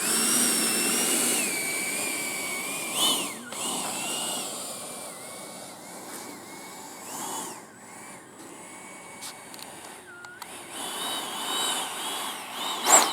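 90mm electric ducted fan of an FMS Rafale RC jet whining in flight, its high pitch bending as it passes and changes throttle. Loud at first, it fades in the middle and swells again to a brief loud peak in a close pass just before the end.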